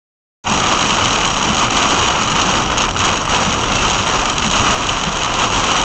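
Loud, steady rushing storm noise of rain and wind, cutting in abruptly about half a second in.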